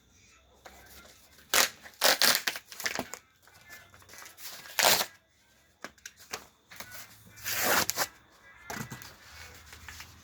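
Fire-starting kindling being broken and crumpled by hand: a few sharp crunching, tearing bursts, the loudest about 2 and 5 seconds in, and a longer crunch near 8 seconds.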